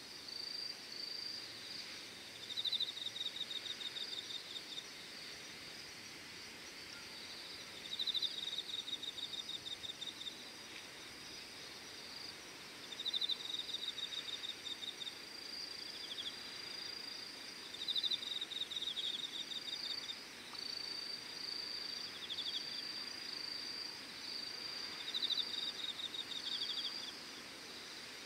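Crickets singing: a steady high trill with short breaks, and about every five seconds a louder burst of rapid pulsed chirps lasting a second or two.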